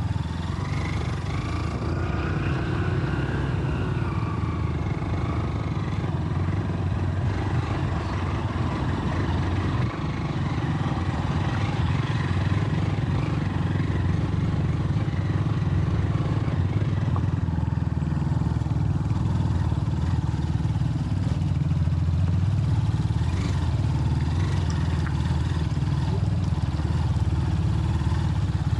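Motorcycle engine running steadily under way, its pitch rising and falling a little in the first few seconds.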